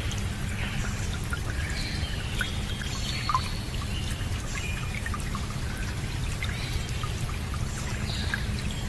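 Water trickling and pouring steadily, like a small stream, over a low steady rumble, with short high chirps scattered through.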